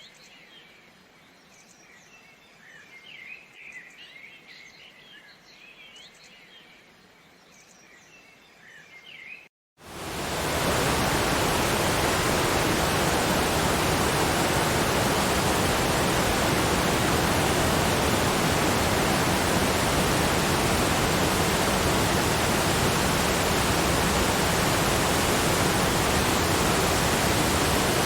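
Faint bird chirps for about the first third, then a brief silence and the steady rush of a waterfall, which fades in within about a second and stays loud and even.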